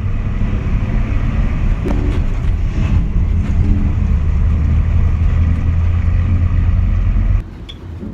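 A motor vehicle on the move: a loud, steady low rumble, with faint music underneath. It cuts off suddenly near the end.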